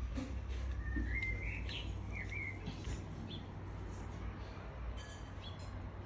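Small birds chirping in short rising and falling calls, clustered about a second in, over a steady low rumble.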